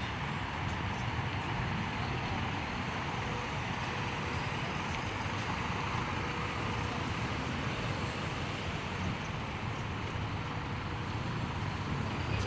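Steady rush-hour road traffic noise: a continuous wash of passing vehicles with no single event standing out.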